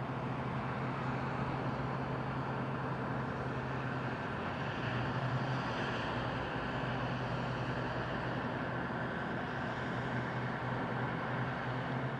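Tugboat's diesel engine running with a steady low hum, under an even wash of wide noise, as the tug works its barge.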